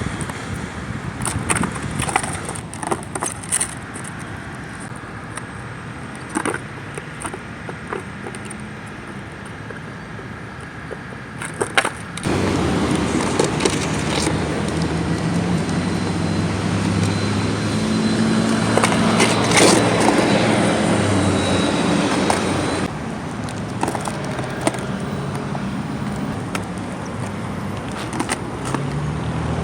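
Skateboard clacks and knocks on pavement for the first half, then a louder steady rumble with a low engine-like hum, as of a car running close by.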